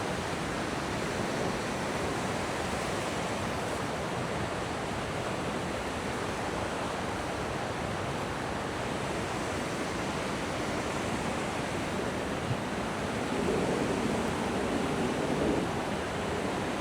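Steady rushing of a river's cascades, with a slight rise in level for a couple of seconds near the end.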